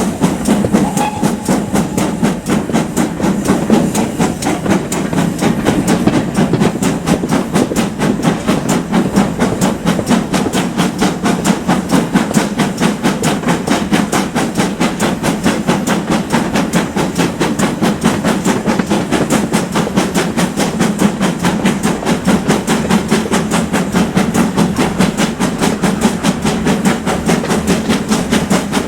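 GWR Manor-class steam locomotive working under way, its exhaust beating in a steady rapid rhythm over the running noise of the train on the track.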